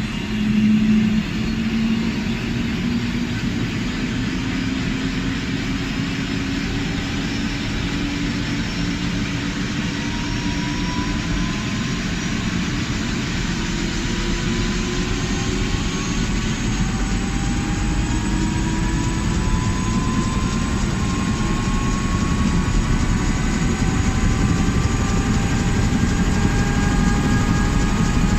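Tour helicopter's engine and rotor running steadily, with a whine that rises slowly in pitch throughout. There is a brief louder burst about a second in.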